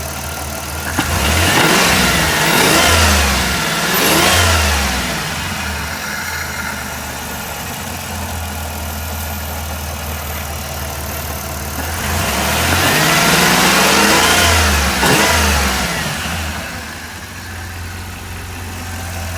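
1994 Chrysler Town & Country's V6 engine idling, then revved up and let back down in two spells several seconds long, about ten seconds apart. The revving comes during a Powerfoam intake-cleaner treatment, after the engine had been struggling.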